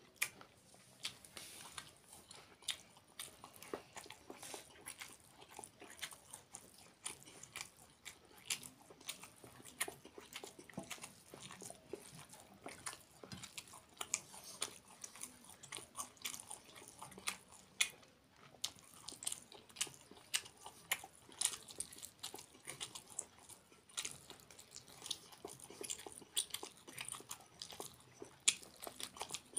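Close-up eating sounds of a person chewing a mouthful of rice and chicken curry eaten by hand. Wet chewing and lip smacks come as many short, irregular clicks.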